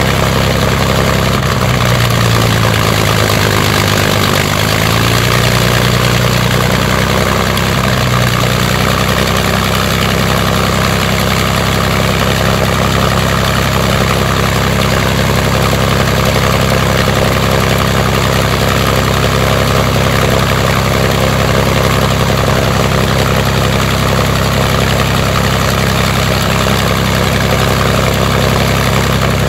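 Rolls-Royce Merlin Mk500 V12 aero engine running on a ground test, with its propeller turning in fine pitch. The engine note wavers slightly in the first several seconds, then holds steady.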